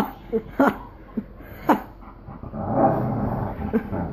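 Dogs barking: several short, sharp barks in the first two seconds, then a longer, continuous stretch of dog noise from about two and a half seconds in.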